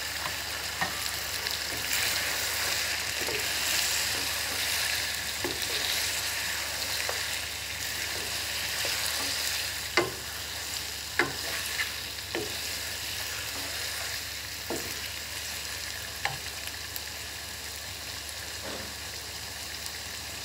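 Chicken pieces and chopped tomatoes sizzling in a karahi, stirred with a wooden spatula that knocks and scrapes against the pan now and then, several sharp knocks in the second half.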